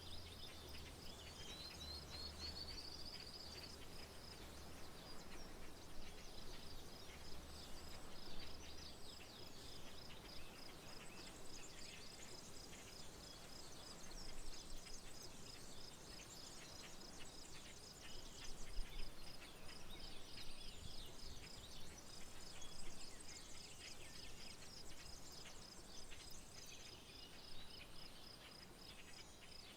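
Rural outdoor ambience: an insect chirping steadily in an even, high pulsed rhythm, with scattered bird chirps over it, including a short rising call near the start. A faint low rumble sits underneath for roughly the first nine seconds, then drops away.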